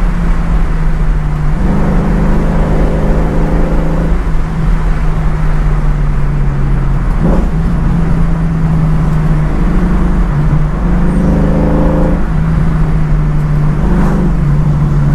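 A 331 cubic-inch stroker small-block Ford V8 with fuel injection driving a 1966 Mustang under way, heard from inside the cabin. Its pitch climbs and drops back several times as the throttle opens and closes.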